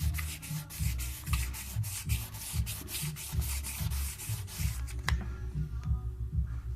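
Wet sandpaper rubbing back and forth over hardened filler in a shower tray, about three to four quick strokes a second, stopping about five seconds in. A low, irregular thudding runs underneath.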